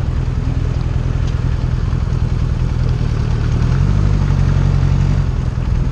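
1980 Honda Goldwing's flat-four engine running steadily, its pitch rising slightly a little past the middle.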